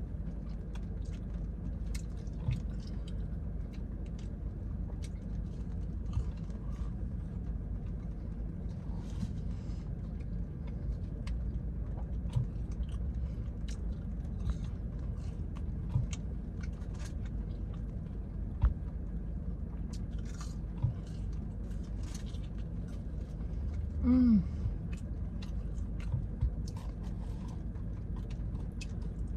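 A person chewing and biting fried catfish close to the microphone, with scattered small wet mouth clicks over a steady low background hum. About three-quarters of the way through comes one brief, louder, low falling voice sound, like an appreciative "mm".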